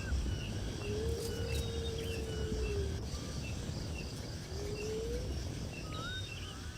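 Birds calling outdoors: repeated short, upward-hooked chirps and a few longer, low slurred whistles, over a steady low rumble.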